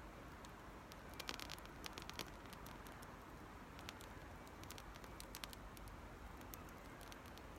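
Small wood fire crackling faintly, with scattered sharp pops and a quick run of them about a second in.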